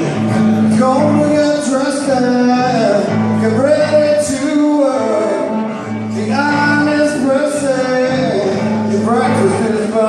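A man singing a blues song live over guitar accompaniment.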